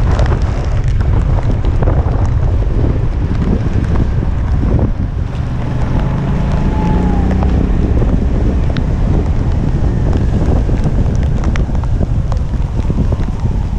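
Strong typhoon wind buffeting the microphone as a loud, steady rumble, with scattered ticks of rain.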